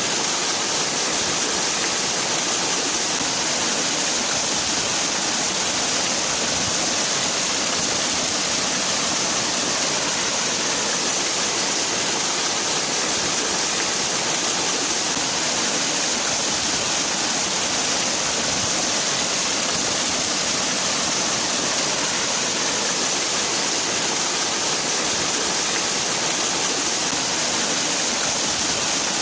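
Waterfall: water pouring and splashing in a steady, unbroken hiss.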